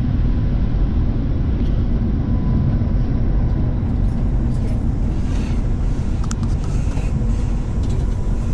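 Steady low rumble of a Class 180 diesel multiple unit running along, heard from inside the passenger coach, with a few faint clicks and rattles.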